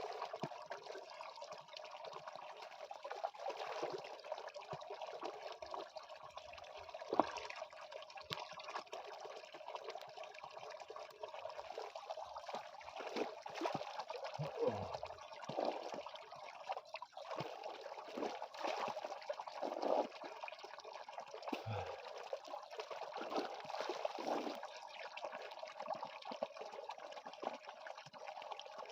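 Natural mountain spring water running in a steady trickle, with small irregular splashes.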